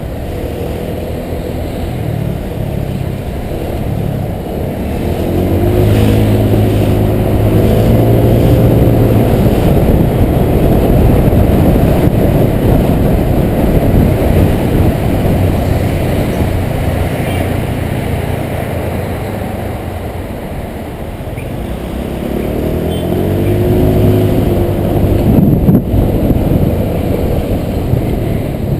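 Honda PCX 125 scooter's single-cylinder engine running under way, picking up speed twice, a few seconds in and again near the end, over a steady rush of wind and road noise.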